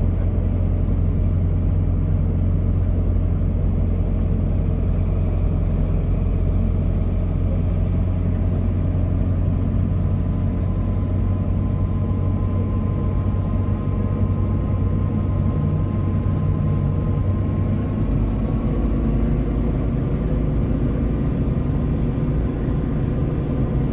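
A car engine running with a steady low rumble, its note shifting about three quarters of the way through.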